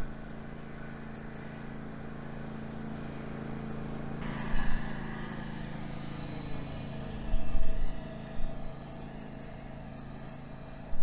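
Motor vehicle engine running steadily, with a louder rushing swell from about four seconds in and a few brief loud bumps.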